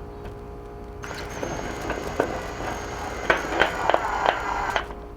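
A small power tool runs with a steady high whine for about four seconds, starting and stopping abruptly, with several sharp clicks or knocks in its last second or so.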